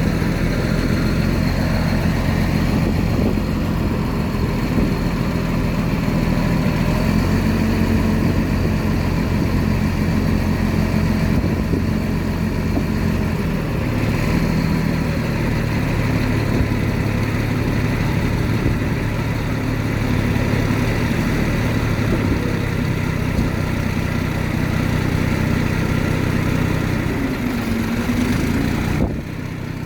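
Heavy diesel engine of earthmoving machinery running steadily, its low note shifting a few times, with a brief dip near the end.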